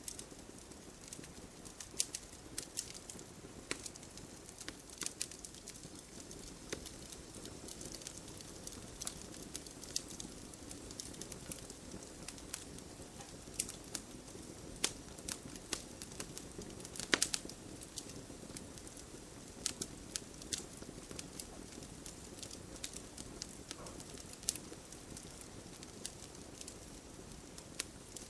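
Wood campfire burning: a steady low rush of flames with irregular sharp crackles and pops, one louder pop about 17 seconds in.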